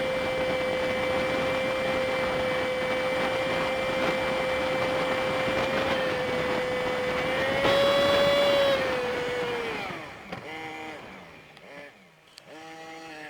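A Honda Super Cub 50 motorcycle's small single-cylinder engine and wind noise, recorded by an on-bike dashcam and played back sped up, giving a steady high drone. The pitch rises briefly about eight seconds in, then falls and the sound dies down, leaving short rising-and-falling pitched sounds near the end.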